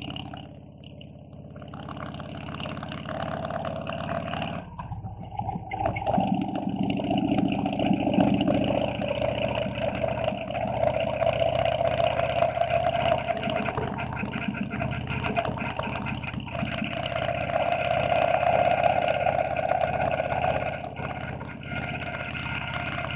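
Harley-Davidson V-twin engine running as the motorcycle is ridden. The engine eases off at the start, builds again, breaks briefly about five seconds in, then runs steadily at cruising speed.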